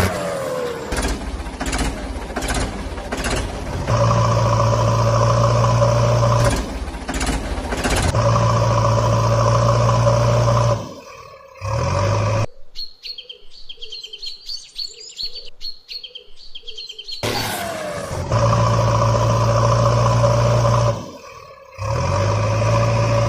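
Cartoon vehicle engine sound effect, a steady running hum that drops out briefly twice. In the middle it gives way for a few seconds to high bird chirping.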